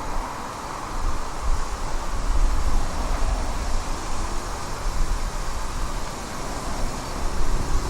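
A train running on the East Lancashire Railway: a steady low rumble with hiss over it and no distinct beats.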